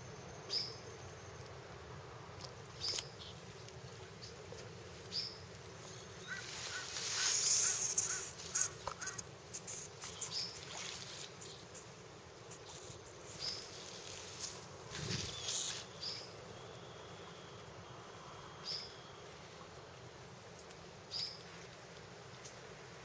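Outdoor animal sounds: a short high chirp repeating about every two seconds, with a louder harsh, rasping call stretch around seven to nine seconds in and a single thump about fifteen seconds in.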